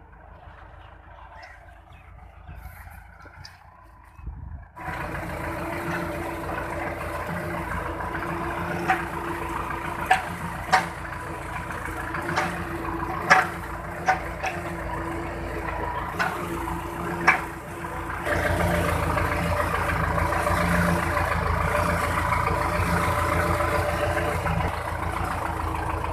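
Belarus MTZ-50 tractor's four-cylinder diesel engine running steadily under load while pulling a cultivator through soil. It is faint at first, becomes suddenly much louder about five seconds in, and takes on a heavier low rumble near eighteen seconds, with a few sharp knocks in between.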